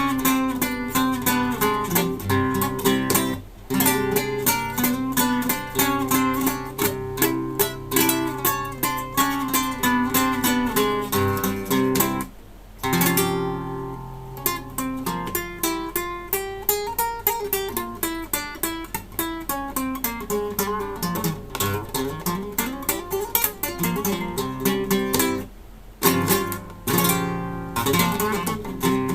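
Classical guitar played live, quick runs of plucked notes with short pauses about three seconds in, around twelve seconds in and near the end; between the second and third pauses the playing slows into a more spacious melodic line.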